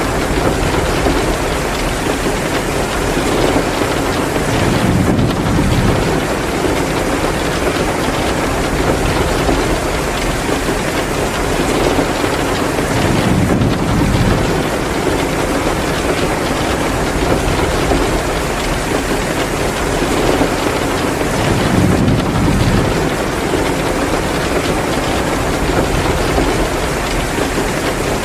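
Heavy rain pouring steadily, with a low rumbling swell that comes back about every eight seconds.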